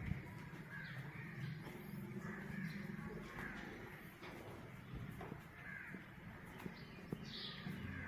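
Birds calling repeatedly, roughly once a second, over a low steady hum.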